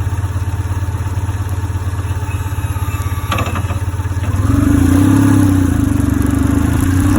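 BMW R1150GS Adventure's boxer-twin engine running with a steady, even pulse. A short click comes about three seconds in. From about four and a half seconds the engine note gets louder and steadier.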